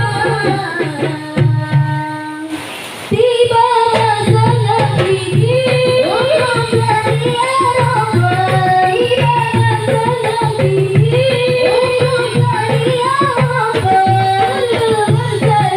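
Marawis group performing: voices singing a melody over hand-drum percussion. The music drops away briefly about two and a half seconds in, then comes back in full.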